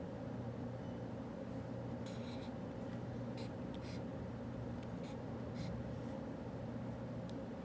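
Writing on paper while solving problems: a few short, scratchy strokes come in small groups over a steady low room hum.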